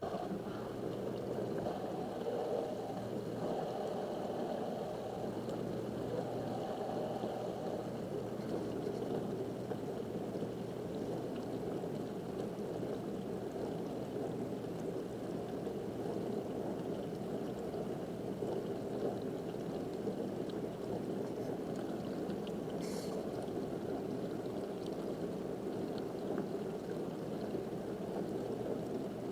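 Dishwasher running a wash cycle, water spraying and splashing steadily inside the tub, with one brief tick about three-quarters of the way through.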